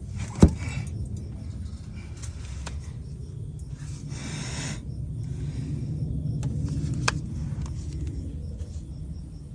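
Steady low hum of a running smoke leak-detector setup pushing smoke into the engine, with a sharp click about half a second in, a short hiss around four seconds in and another click about seven seconds in.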